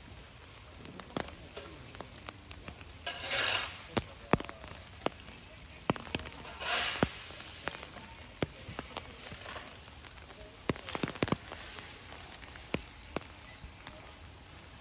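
Steady light rain, with scattered drops ticking sharply on a nearby surface. Two short rushing hisses break through, about three and six and a half seconds in.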